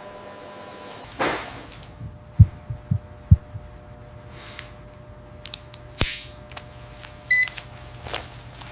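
Electronic sound-effect mix over a steady hum: a few deep heartbeat-like thumps, several swooshes and a short beep.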